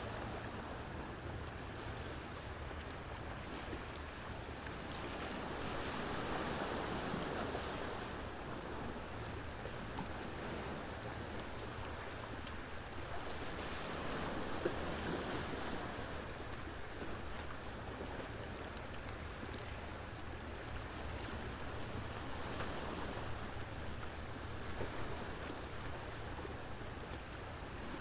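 Ocean waves washing ashore, swelling and easing about every eight seconds, with a wood fire crackling and popping now and then over them.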